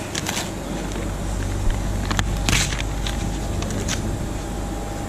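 Peel ply being torn off a cured fiberglass lay-up in a few short ripping bursts, the loudest about two and a half seconds in, over a steady low hum.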